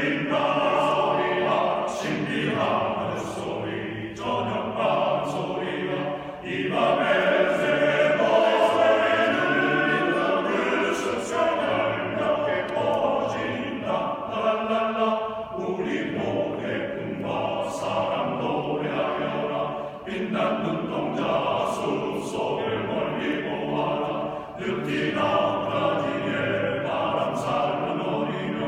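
A choir singing, several voices holding and changing notes together.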